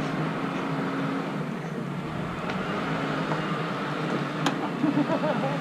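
A boat's engine running steadily, a low hum under a haze of noise.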